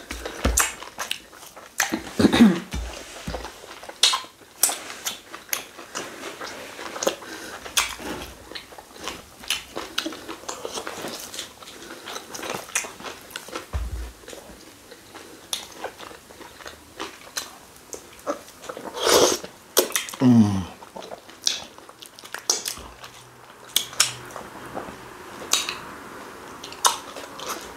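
Close-up mouth sounds of people eating fufu with slimy ogbono soup: wet chewing, lip-smacking and sticky clicks coming irregularly throughout. There are two louder moments, about two seconds in and about twenty seconds in, each ending in a short falling sound.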